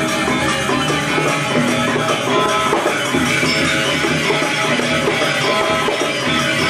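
Balinese gamelan ensemble playing continuously: bronze metallophones and gongs ringing in dense interlocking patterns over drums.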